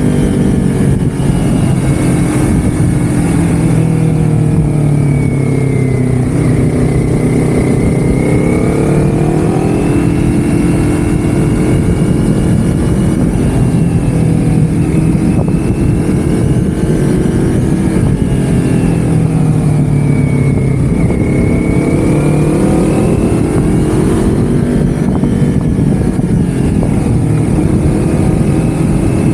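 Motor vehicle engine running on the move, its pitch dipping and climbing again three times as it slows and speeds up, over a dense low rumble.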